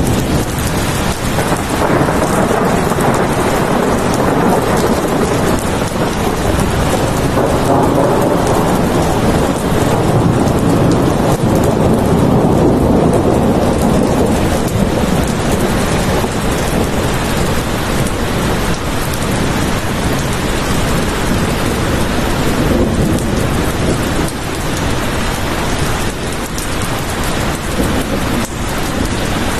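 Steady heavy rain, with a low rolling rumble that swells over the first half and then fades away.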